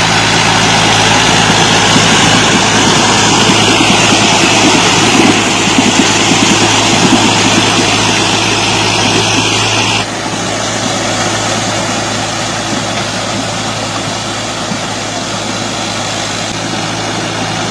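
Tractor engine running steadily, with a heavy, even hum; the sound drops abruptly in loudness about ten seconds in.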